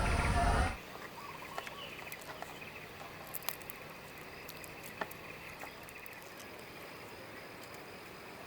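A louder sound cuts off abruptly under a second in. It leaves a faint, steady insect drone of crickets or cicadas, with scattered small clicks and taps.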